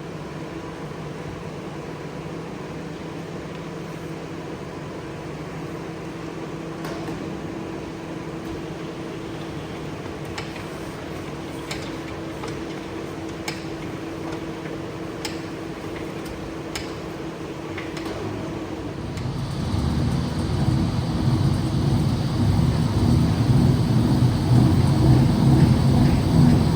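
A machine humming steadily, with a few light clicks through the middle; about two-thirds of the way through a louder, lower machine noise starts up and keeps running.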